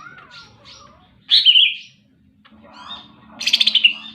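Cucak ijo (green leafbird) singing vigorously: a loud falling phrase about a second in and a fast rattling trill near the end, with softer chirps between. A faint low steady hum starts about halfway through.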